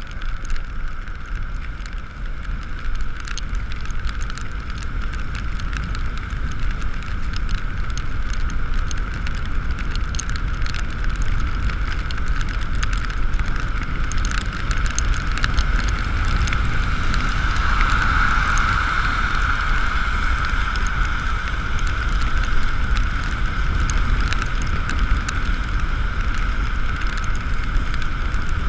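Riding an Ekoway ML5000 electric motorcycle on a wet road: a steady high whine from the electric drive, a little louder about two-thirds of the way through, over wind rumble on the microphone and the hiss of rain and wet tyres.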